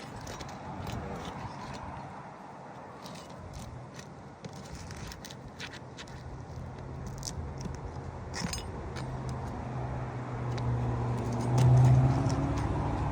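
Scattered small clicks, clinks and scrapes of a snake tool prying and pulling nails under asphalt roof shingles. In the second half a motor vehicle's engine hum swells up and is loudest near the end.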